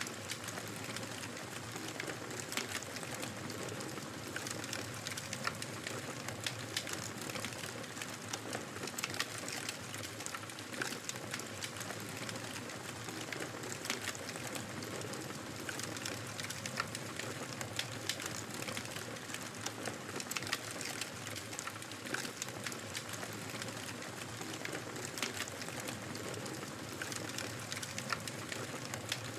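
Wood fire crackling in a fireplace: a steady hiss of flame with frequent short, sharp pops and snaps scattered all through.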